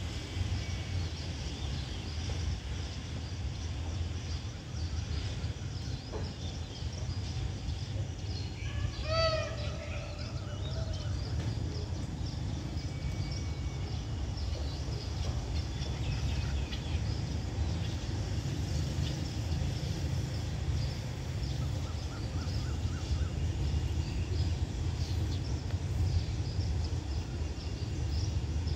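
Birds chirping over a steady low rumble, with one louder, pitched call about nine seconds in.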